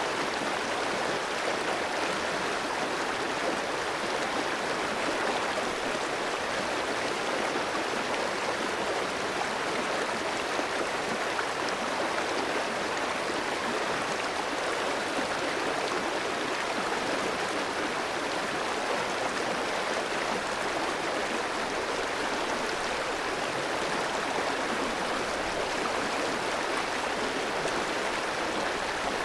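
Clear mountain stream flowing over rocks, a steady rushing and babbling of water with no change in level.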